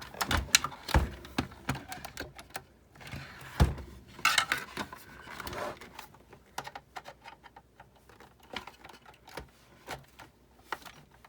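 Plastic and metal parts of a Big Shot die-cutting machine being handled and pried at during disassembly: a quick run of clicks, taps and rattles with a few heavier knocks in the first four seconds or so, thinning to scattered light ticks.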